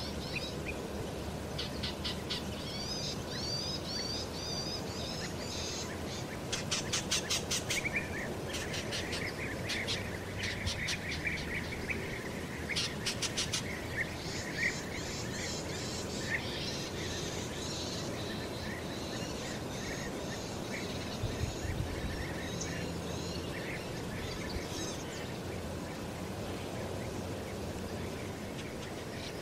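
Small songbirds calling: rapid series of high ticking chips, a warbling phrase and scattered chirps and twitters, over a steady background of outdoor noise.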